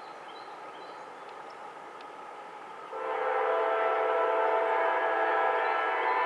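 Freight locomotive air horn sounding one long blast of several notes at once, starting suddenly about three seconds in, over a steady background noise.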